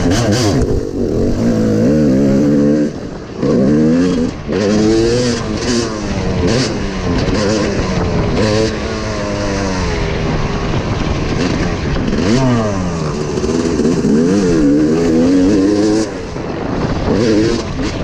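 Dirt bike engine on a motocross track, revving up and down over and over as the throttle is opened and closed, with brief drops near 3 and 4 seconds in.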